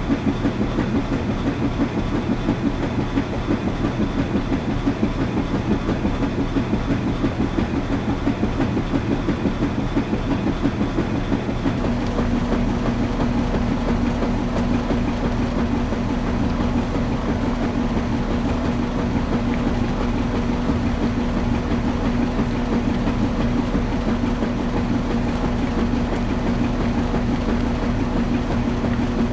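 Washing machine running with a rapid rhythmic low churning; about twelve seconds in it changes to a smoother, steadier hum with a steady tone.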